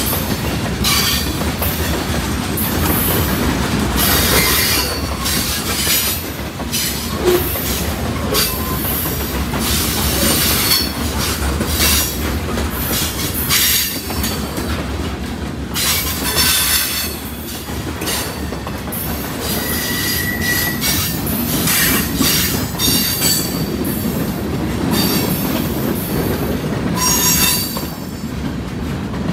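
Freight cars of a long train rolling past close by: a steady rumble of steel wheels on rail, with frequent clicks and knocks and a few brief high squeals from the wheel flanges.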